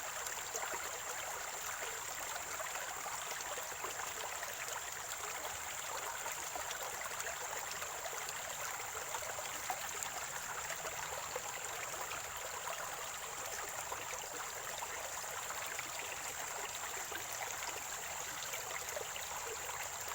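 Spring water running and gurgling in a small stream, a steady even flow with no breaks. A thin, steady high-pitched whine sits over it throughout.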